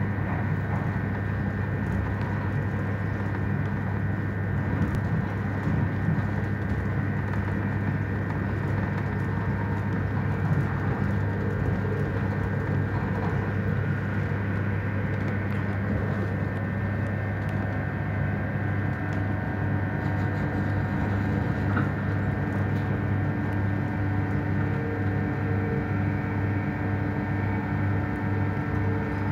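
Running noise heard from inside a moving electric train: a steady low rumble and hum from the wheels and running gear. A higher steady tone joins it about two-thirds of the way through.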